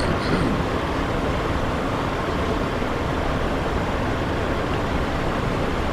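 Steady cockpit noise of a Cessna Citation XLS twin-turbofan business jet in the climb: an even rushing of airflow and engine noise.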